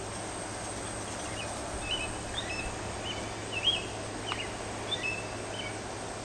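A bird giving a string of short, high chirps over a steady background hiss.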